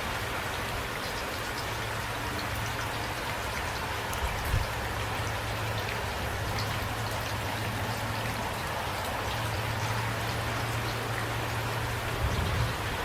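Steady rain falling, with individual drops pattering through an even hiss. There are two brief low thumps, about four and a half seconds in and near the end.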